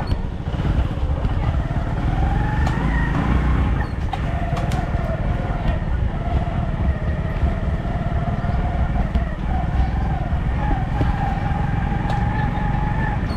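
A motor vehicle's engine running steadily, with a heavy low rumble and a wavering whine above it.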